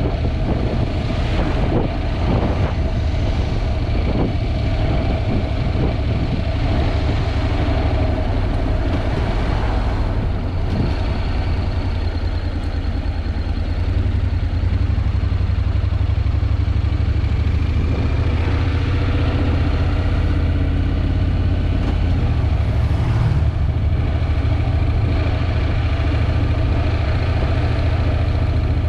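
Honda NC750X's parallel-twin engine running steadily, half buried under heavy wind buffeting on the GoPro's microphone.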